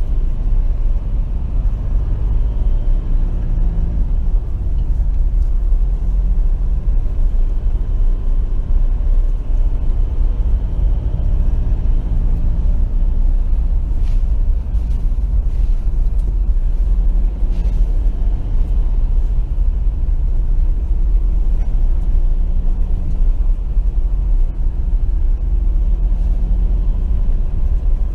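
Vehicle driving along: a steady low rumble of engine and road noise that holds evenly throughout.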